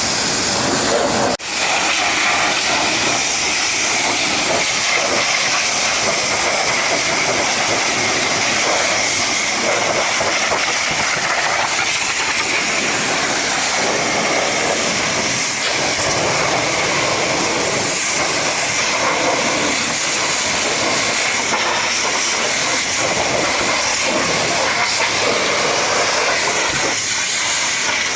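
High-pressure washer jet spraying water onto a truck: a loud, steady hiss that breaks off for an instant about a second and a half in, then carries on.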